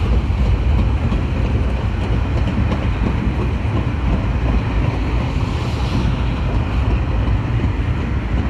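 Empty log wagons of a freight train rolling past, a steady rumble of wheels on the rails, with wind noise on the microphone.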